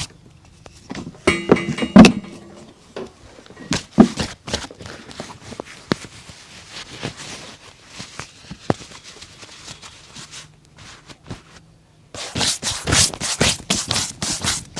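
Scattered thunks, knocks and taps from a boot and cobbler's tools being handled, the loudest about two and four seconds in. About twelve seconds in, quick rubbing strokes on the boot start up again.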